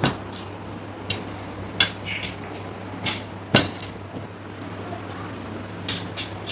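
Eating sounds from a meal of dal and rice: a handful of sharp clicks and ticks at irregular intervals, over a faint steady hum.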